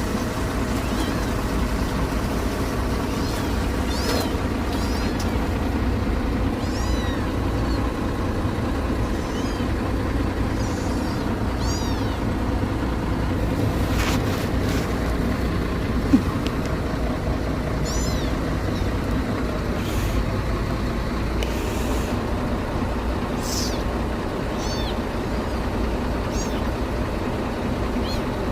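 Kitten mewing repeatedly in short high-pitched calls over a loud, steady low machine hum, with one sharp click about sixteen seconds in.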